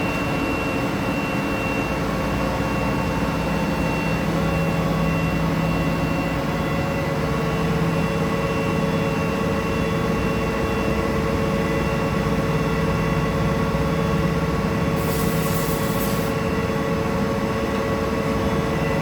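NZA gear machine running steadily with a hum made of several steady tones. A brief hiss comes about fifteen seconds in.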